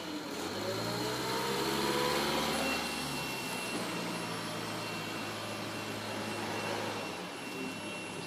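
Linde forklift truck driving off: its motor rises in pitch over the first couple of seconds, then runs steadily. A faint, steady high tone comes and goes from about two and a half seconds in.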